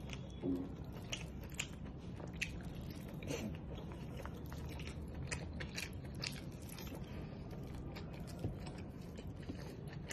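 Close mouth sounds of a man chewing and biting into chicken momos: faint wet smacks and short clicks scattered throughout.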